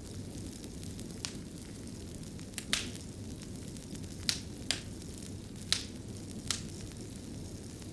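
Fire in a fireplace crackling: a steady low rumble with about seven sharp, irregular pops.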